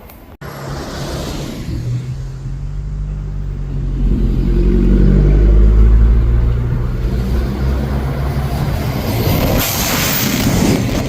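Odakyu Line electric train running past: a low rumble with a steady motor hum builds to its loudest about halfway through and then eases, and a broad hiss of wheels on rail rises near the end.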